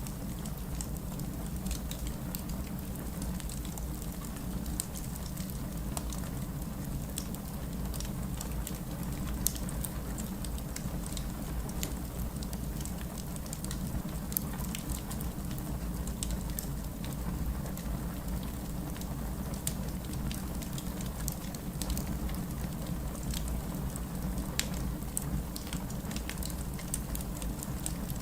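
Steady rain with a low rumble underneath, mixed with a fireplace crackling in many small, sharp pops.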